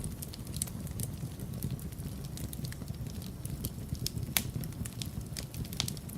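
Wood fire burning in a fireplace: a steady low rumble of flames with frequent irregular crackles and pops, two sharper pops standing out about four and a half and six seconds in.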